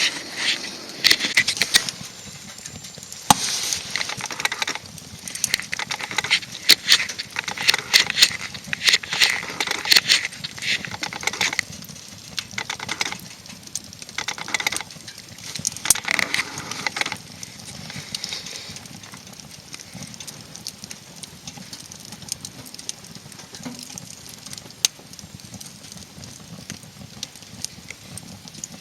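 Wood fire crackling and popping, with dense runs of crackles for the first two-thirds that thin out to scattered pops.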